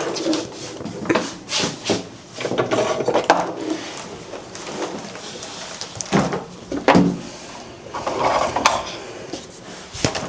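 Rummaging and clattering of kitchen items, with a couple of sharp knocks about six and seven seconds in, over muffled voices.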